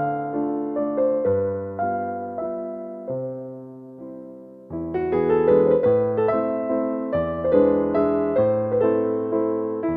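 Gentle piano music, with notes struck one after another and left to ring. The music thins and fades out about three to four seconds in, then starts again fuller just before the five-second mark.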